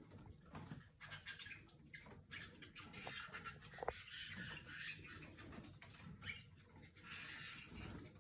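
Caged canaries making faint short chirps and calls, with patches of rustling and scuffling in the cages.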